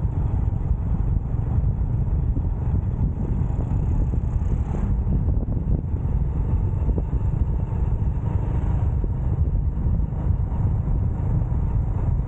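Steady rush of wind on the microphone from a moving motorcycle, with the bike's engine and road noise blended underneath.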